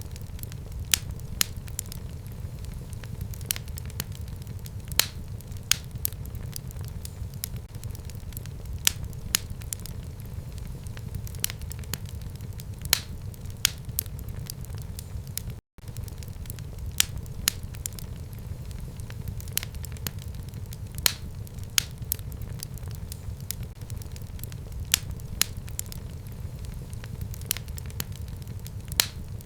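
Fire burning in a fireplace: sharp crackles and pops at irregular intervals, a few every second or two, over a steady low rumble. About halfway through, the sound cuts out for a split second.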